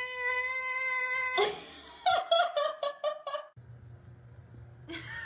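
A dog vocalising: one long, steady howl-like note, then a quick string of short yips, about eight in a second and a half.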